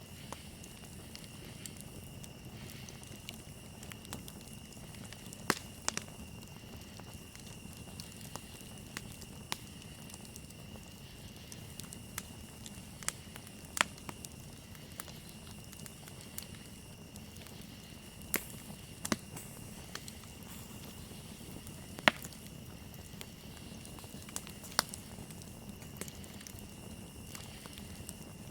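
Campfire crackling, with scattered sharp pops every second or two over a low steady hiss of burning wood, and crickets chirring in a steady high tone behind it.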